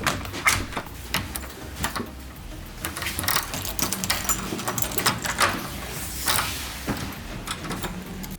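Irregular knocks, clicks and clatter of things being handled and moved about, over a low rumble. It cuts off abruptly at the end.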